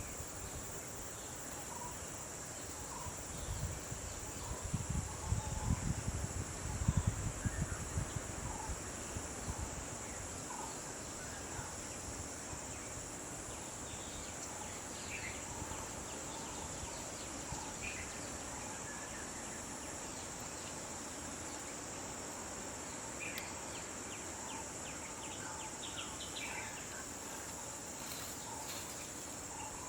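Steady high-pitched drone of insects, with scattered short bird chirps. A few seconds in, a low rumbling noise rises for several seconds and then fades.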